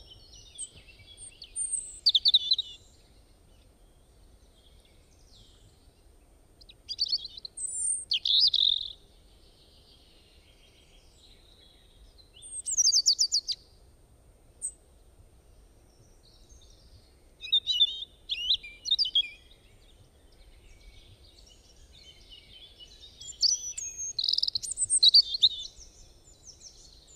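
Songbirds singing: bursts of quick, high chirping and trilled phrases every few seconds, over a faint low background hiss.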